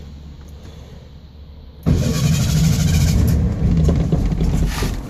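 1966 Volkswagen Beetle 1300's air-cooled flat-four engine, started cold: a low rumble at first, then about two seconds in it suddenly gets much louder and runs loud until near the end.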